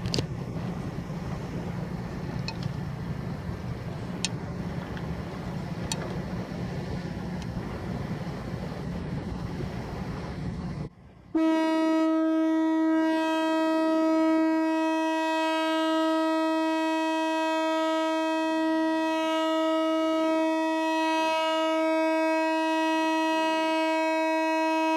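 A boat's horn sounding one long steady blast, lasting about fourteen seconds and cutting off abruptly. Before it, for about the first eleven seconds, a steady rumble of wind and engine noise with a few sharp clicks.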